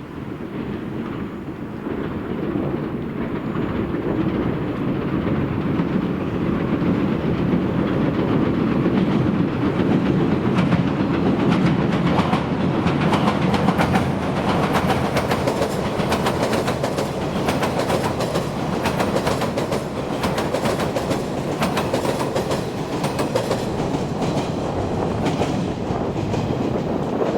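Electric commuter train crossing a railway bridge: a steady rumble of wheels on the bridge that builds over the first few seconds and holds, with fast clicks of the wheels over rail joints through the middle stretch.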